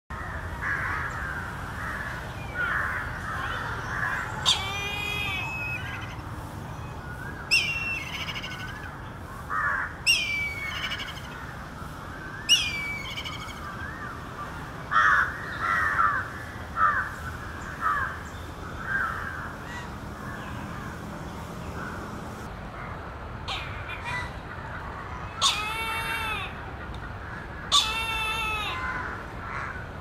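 Loud bird calls, each about half a second long, repeated every two to three seconds in two runs with a quieter stretch between them. Softer chirping of other birds runs underneath.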